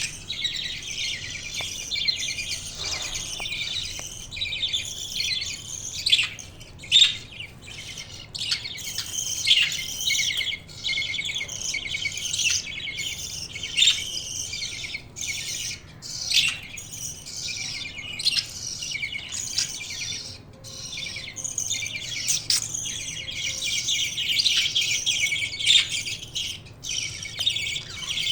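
Budgerigars chirping and chattering continuously, a dense twittering warble broken by frequent short, sharp chirps.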